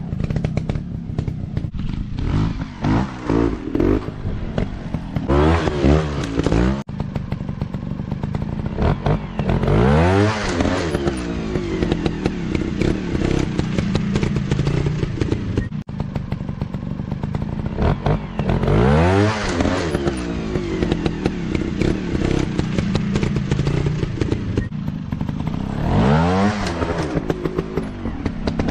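Dirt bike engines revving hard and easing off again in repeated surges, several times over, with a steady engine drone between them and some clattering.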